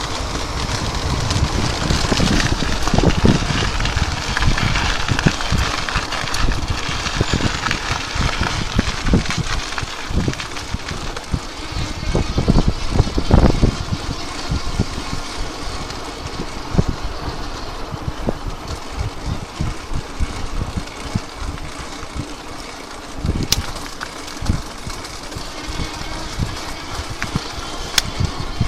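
Riding noise from an electric bike on Michelin Mambo BMX tyres: a rough rumble with many knocks and rattles over uneven ground, mixed with wind hiss on the microphone. It is heaviest in the first half and eases off later, with two sharp clicks near the end.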